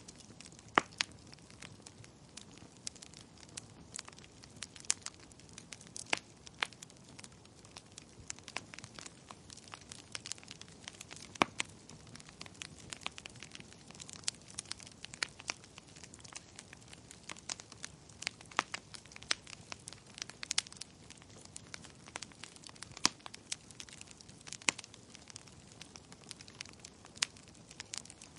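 Wood fire in a fireplace crackling, with irregular sharp pops and snaps over a soft steady hiss of the flames.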